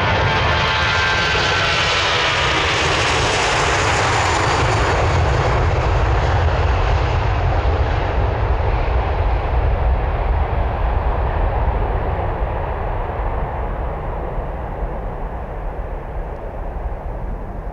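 Jet airliner passing close by: its engine whine falls in pitch over the first few seconds as it goes past, and the roar then slowly fades away.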